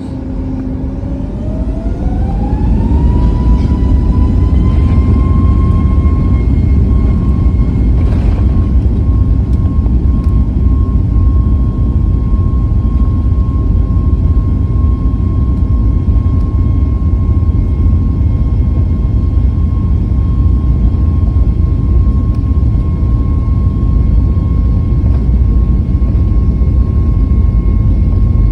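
Boeing 737 MAX 9's CFM LEAP-1B turbofan engines spooling up to takeoff thrust, heard from inside the cabin: a whine rises in pitch and grows louder over the first few seconds, then holds steady over a heavy rumble through the takeoff run.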